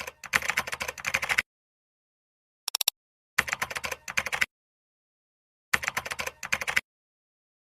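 Three runs of rapid clicking like keyboard typing, each about a second long, cut apart by dead silence, with a very short high blip between the first two.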